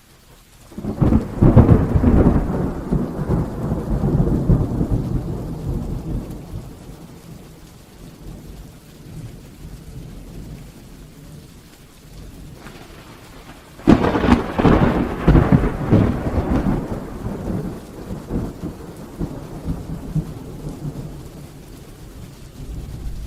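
Heavy rain with two thunderclaps: one breaking about a second in and rumbling away over several seconds, a second cracking sharply about fourteen seconds in and rolling on for several seconds more.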